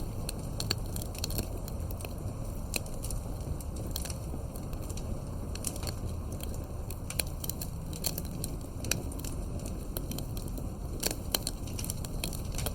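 Fireplace crackling, with irregular sharp pops and snaps over a low steady rumble.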